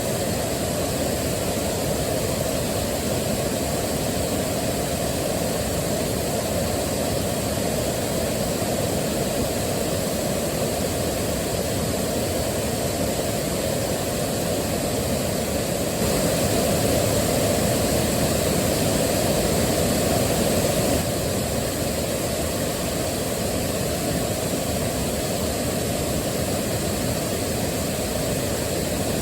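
Waterfall: a steady, deep rush of falling water, swelling slightly louder for about five seconds in the middle.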